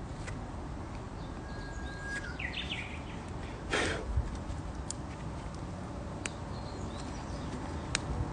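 Campfire crackling with a few sharp pops. About a second and a half in, a held whistle followed by a quick flourish of higher notes, the song pattern of a Japanese bush warbler, and just before the middle, a short louder rustling burst.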